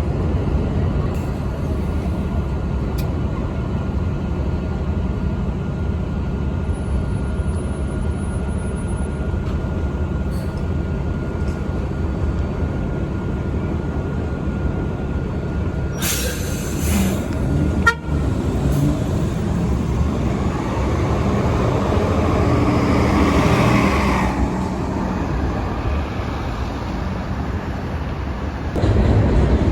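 City bus engines running in traffic, a steady low rumble, with a short hiss about halfway through and a horn toot.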